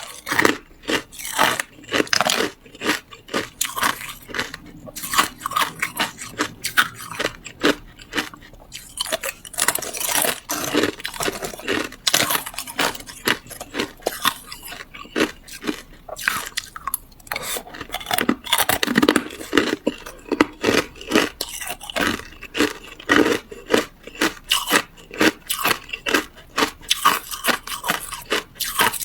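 Person biting and chewing hard clear ice close to the microphone: loud, irregular crunching and cracking, several crunches a second.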